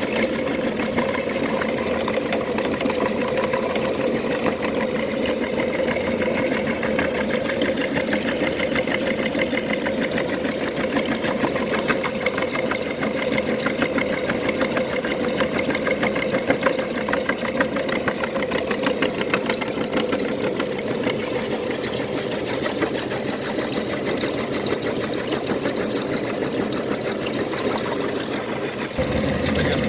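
Electric meat grinder running steadily: a constant motor hum with a fast, dense rattle over it.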